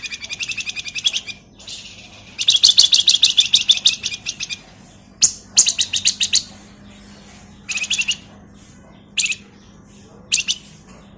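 Flamboyan (wergan Jawa) songbird singing in fast, rattling high-pitched trills: long bouts at the start and again around the third and fourth seconds, then shorter bursts of trill and a few sharp single notes. A faint steady low hum sits underneath.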